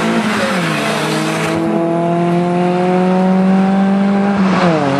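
Volkswagen Golf Mk1 engine at full throttle in a standing-start sprint, the revs climbing steadily with two upshifts, one just after the start and one near the end, each dropping the pitch before it climbs again.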